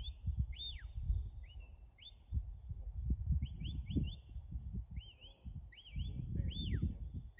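A bird's repeated short chirping calls, coming in quick clusters of two or three sharp notes, over gusty wind rumble on the microphone.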